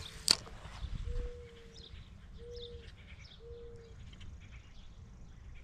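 A single sharp click, likely the spinning reel's bail, then a bird's low cooing call: one longer note about a second in and two shorter notes after it. Faint chirps of small birds sound throughout.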